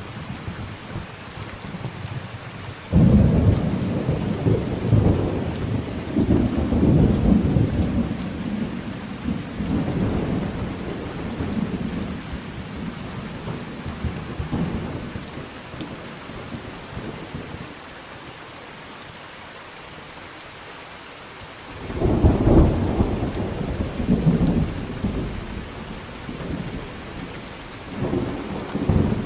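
Thunderstorm: steady rain hiss with rolls of thunder, a sudden loud rumble about three seconds in that rolls on for several seconds, another strong rumble about two-thirds of the way through, and a third starting near the end.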